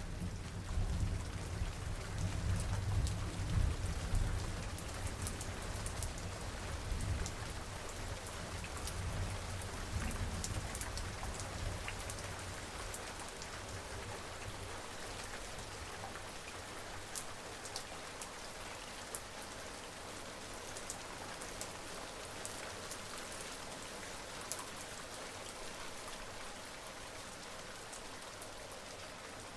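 Steady rain falling, with individual drops ticking sharply. The low rumble of a distant summer thunderstorm dies away over the first several seconds.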